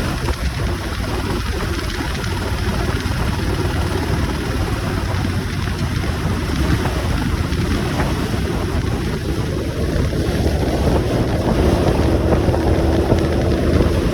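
Motorcycle underway: the engine running under a steady rush of wind over the microphone. The rush grows louder about two-thirds of the way through.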